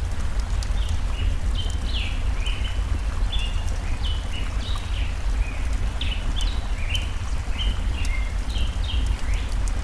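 Layered forest ambience: birds chirp busily in short, falling notes over a steady low rush of stream water, with sharp snaps of a crackling wood fire.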